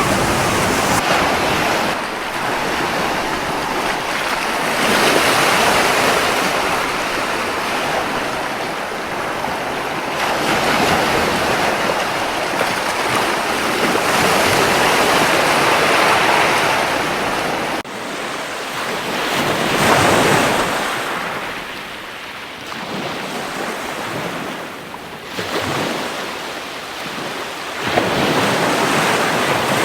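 Gentle sea surf breaking and washing on a beach, the rush of water swelling and fading every few seconds.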